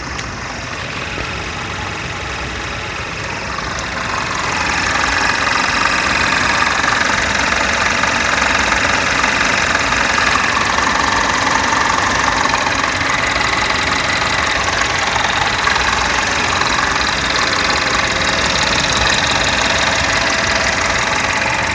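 A Chevrolet Malibu running with the unexplained 'weird noise' its owner is recording: a steady mechanical noise that grows louder about four seconds in.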